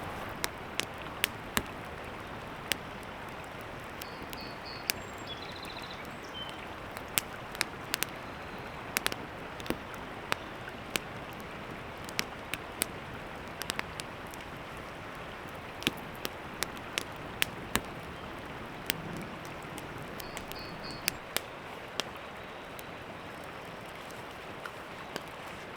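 Wood campfire crackling, with irregular sharp pops and snaps, over the steady rush of a nearby creek.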